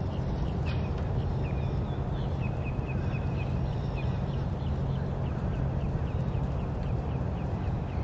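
A bird calling in a quick run of short, high notes, several a second, over a steady low background rumble.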